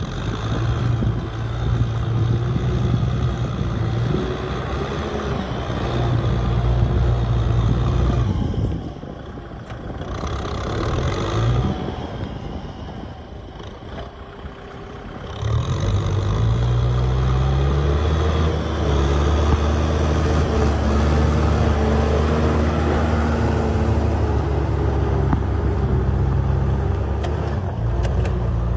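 Kubota M8540 tractor's diesel engine running with a steady low drone. It eases off and quietens for several seconds in the middle, then picks up again and holds steady and loud.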